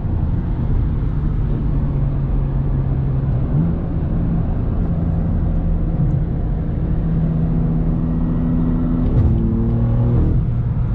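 A car engine and road noise while driving. The engine note holds steady, steps up in pitch a little over a third of the way in, and changes again near the end.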